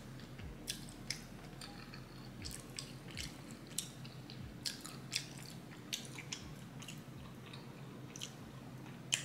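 Close-up mouth sounds of chewing fufu and goat meat in egusi soup: soft wet smacks and clicks at irregular intervals over a faint steady hum.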